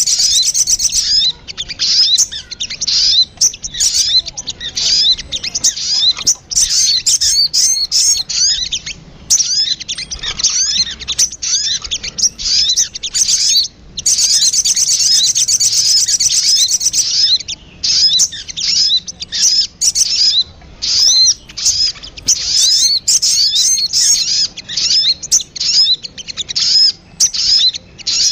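Sogon (little spiderhunter) calls from a bird-lure recording: fast, high chirping notes repeated in dense runs, with a brief pause about halfway through.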